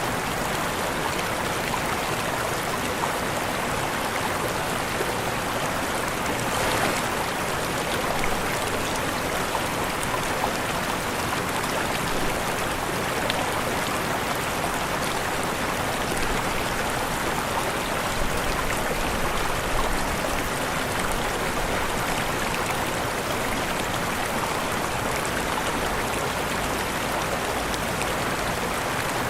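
Waterfall: a steady rush of falling water, even and unbroken, with a brief small swell about seven seconds in.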